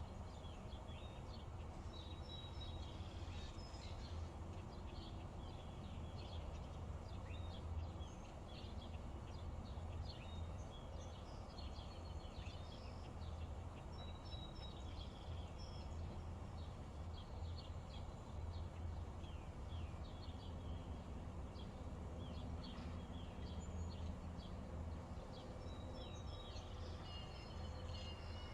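Many birds chirping and calling over a faint, steady low hum.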